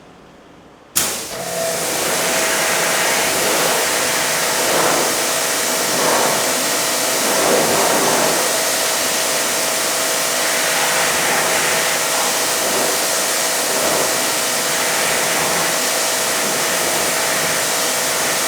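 Pressure washer starting about a second in and spraying steadily, a loud hiss of the water jet with the faint steady whine of the pump motor beneath it, rinsing snow foam off a car panel.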